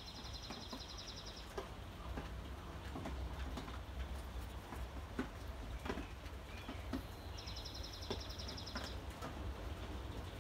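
A small bird trills twice, each a rapid run of high notes lasting about a second and a half, the second trill about seven seconds after the first. Between them, faint scattered clicks over a low steady wind rumble.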